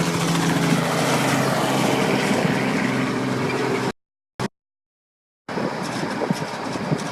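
High-water truck's engine running with a steady hum. About four seconds in the sound cuts out completely for a second and a half, then returns as a rougher, noisier rumble.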